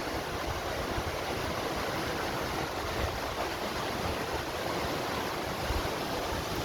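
Waterfall: water pouring and splashing as a steady rushing noise.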